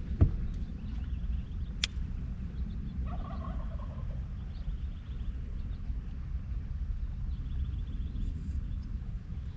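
A short bird call about three seconds in, heard over a steady low rumble, with a sharp knock just after the start and a fainter click about two seconds in.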